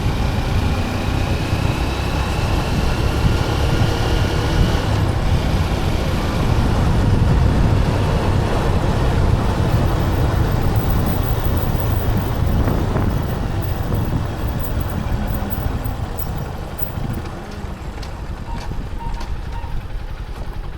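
A motor vehicle running on the road: a steady engine rumble with road and wind noise. A faint tone rises over the first few seconds.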